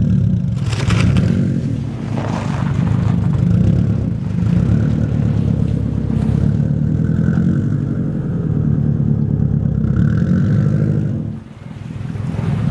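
Car engine revving under load as the car pulls out of snow, with a short drop in level near the end.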